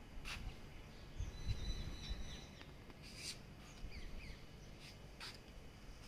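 Faint chirping and short calls of small birds, with three sharper chirps spread through it. A low rumble comes and goes in the first two seconds.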